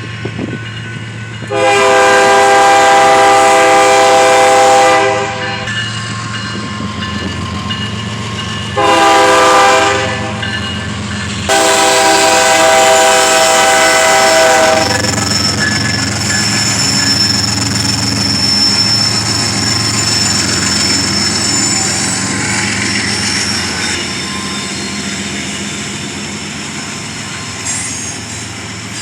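Locomotive horn sounding several tones at once: a long blast, a short one and another long one. The train then keeps rumbling past with a thin, steady high whine over it.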